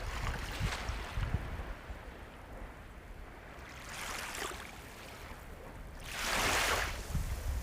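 Ocean waves breaking and washing up the shore in surges, the loudest about six seconds in, over a steady low surf rumble.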